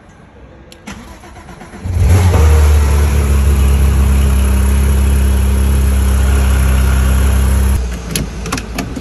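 A Porsche 911's flat-six engine is started about two seconds in, catches at once and runs at a loud, steady idle, then its sound drops off abruptly near the end.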